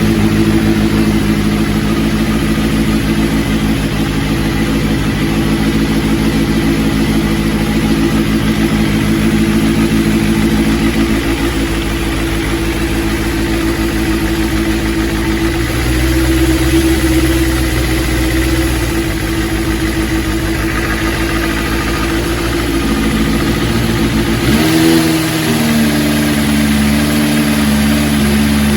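Suzuki GSX400 Impulse's inline-four engine idling on freshly fitted Keihin CVK30 carburettors that are not yet synchronised. The idle shifts a little about 16 seconds in and steps up to a higher, steady speed about 25 seconds in.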